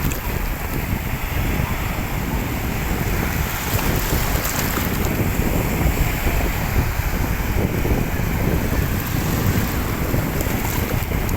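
Wind buffeting the microphone, a steady rushing noise with a flickering low rumble.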